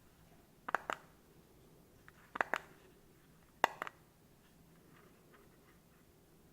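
Sharp clicks in three quick pairs, about a second and a half apart, then a few faint ticks.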